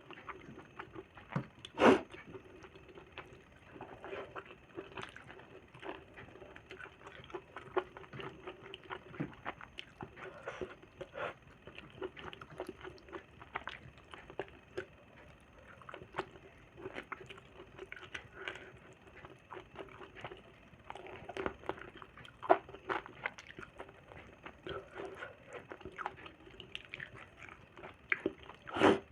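Close-up eating sounds: wet chewing and lip smacking of gravy-soaked food, with irregular clicks throughout and two louder smacks, about two seconds in and near the end. A faint steady hum runs underneath.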